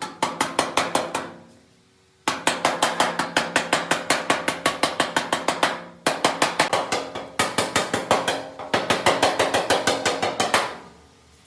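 Rapid hammering on metal, about six ringing blows a second, in runs of several seconds broken by short pauses.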